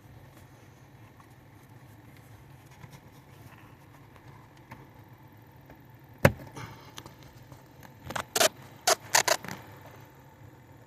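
One sharp knock about six seconds in, then a quick run of five or six sharp clicks and knocks about two seconds later, over a faint low hum.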